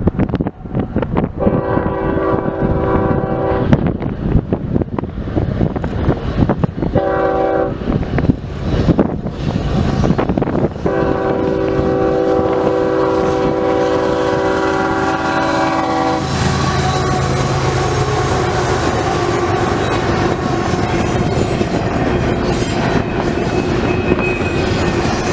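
Canadian National freight locomotive's multi-chime air horn sounding three blasts: long, short, then a long held blast, the crossing signal. The train then rolls by with steady wheel clatter and rail noise, and heavy wind buffets the microphone throughout.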